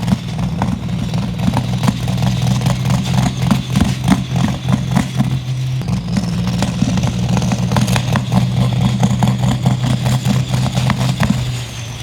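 Highly modified pulling tractor's engine running flat out on a pull, with rapid crackling from the exhaust. The engine note dips briefly about halfway, picks up again, and eases off near the end.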